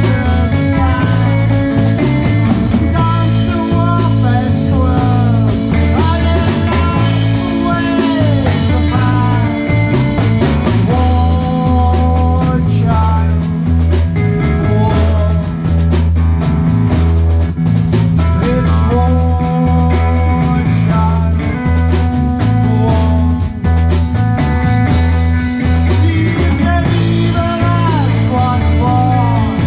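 Live rock band playing loud and steady, with drum kit, bass and electric guitar.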